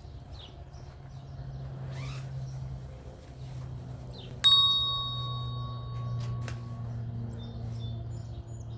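Birds chirping over a steady low hum, and about four and a half seconds in a single loud ding, a bell-like metallic strike that rings on for about two seconds.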